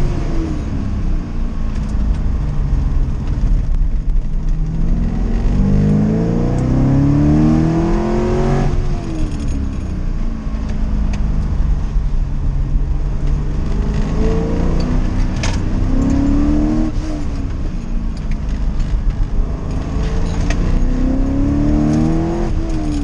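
1979 Corvette's small-block V8 heard from inside the cabin during a hillclimb run, revving up under hard acceleration and dropping off as the throttle is lifted for the corners. The pitch climbs and falls back three times, with a steady low road rumble beneath.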